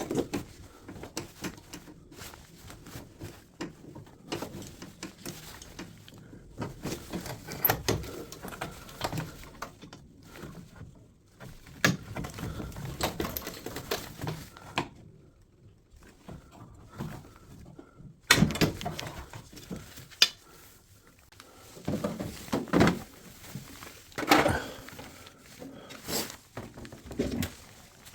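Irregular clicks, knocks and clatter of washing-machine parts and tools being handled during disassembly, with louder bursts of handling a little under halfway and in the last third.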